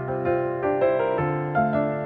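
Background music played on piano: sustained notes and chords changing every few tenths of a second.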